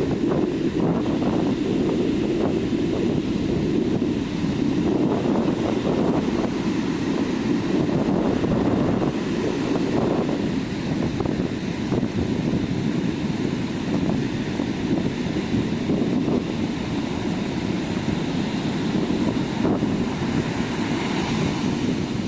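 Ocean surf washing onto a sand beach, a continuous rushing hiss, with wind buffeting the microphone. A brighter wash of surf comes near the end.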